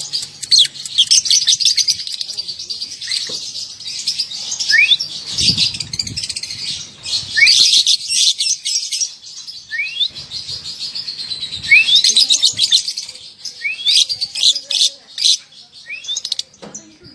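Young lovebird chattering in its long, rapid 'ngekek' trill, coming in repeated bursts with short rising chirps between them.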